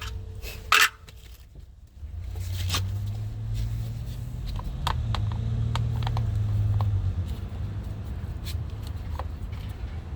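Hand-work on a car door latch assembly while its plastic cover is pried off: a sharp snap about a second in, then scattered light clicks and scrapes. A low hum sits under the clicks from about two to seven seconds in.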